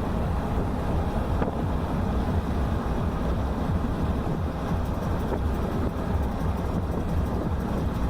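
A car driving along a highway: steady road and engine noise, low and even throughout.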